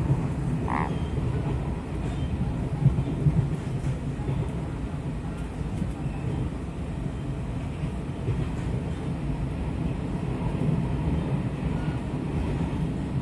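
Taiwan Railways passenger train running, heard from inside the passenger car: a steady low rumble of the wheels and car body.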